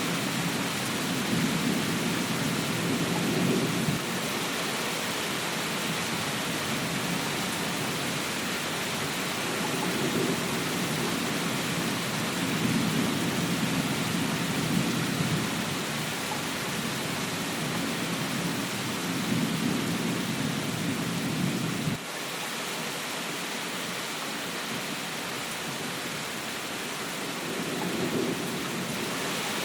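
Steady heavy rain hiss with low rolls of thunder swelling and fading every few seconds. The rumble cuts off abruptly about 22 seconds in, leaving the rain alone, and a faint roll returns near the end.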